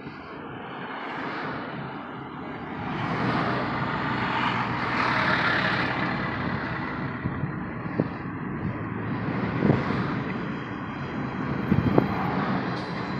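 Steady road and engine noise of a moving vehicle, swelling about four to six seconds in, with a few short sharp knocks in the second half.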